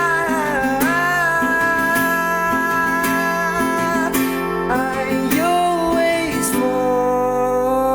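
Acoustic guitar playing under a male voice holding long, gliding sung notes without words, the closing bars of a ballad.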